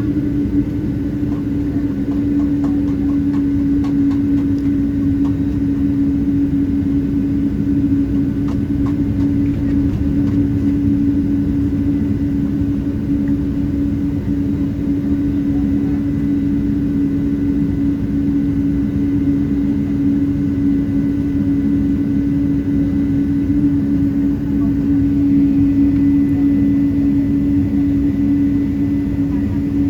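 Boeing 777-200 cabin noise while taxiing after landing: the engines at idle and the cabin air system give a steady low hum with a fainter, higher whine over a rumble.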